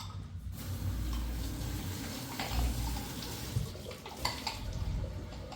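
Running or splashing water with a few sharp clinks.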